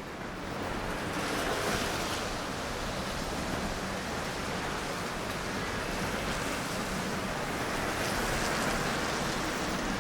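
Steady rushing noise of a wet city street, swelling about a second in and then holding level.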